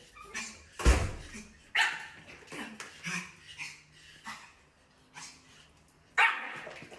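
A dog barking several times, with short gaps between the barks and one more bark near the end.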